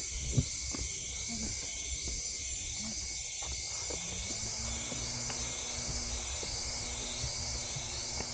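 Forest insect chorus: a steady high buzz that swells and fades about twice a second. A single sharp knock sounds just after the start, and a faint steady low hum comes in about halfway through.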